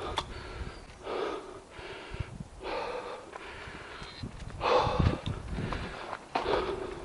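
A person breathing hard, with about five loud, rushing breaths one to two seconds apart; the loudest comes about five seconds in.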